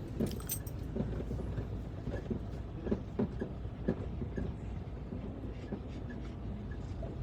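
Semi truck's diesel engine running low under the cab while the rig reverses slowly, with scattered knocks and rattles.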